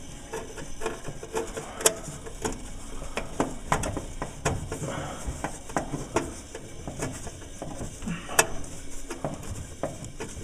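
Light, irregular metallic clicks and clinks of hand tools on a gas furnace as its flame sensor's mounting screw is being unscrewed, with two sharper clicks about two and eight seconds in.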